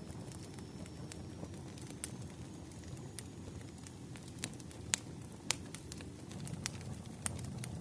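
Campfire burning: a steady low rush of flames with sharp crackles and pops scattered irregularly through it, the loudest two about five seconds in.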